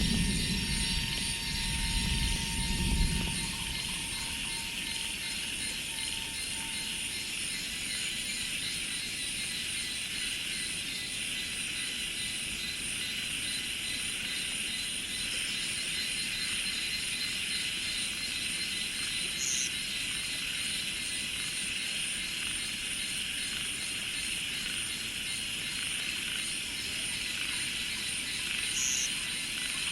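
Steady chorus of rice-field insects, a dense high drone with a fine pulsing shimmer above it. A low rumble fades out in the first few seconds, and two short high chirps stand out near the middle and near the end.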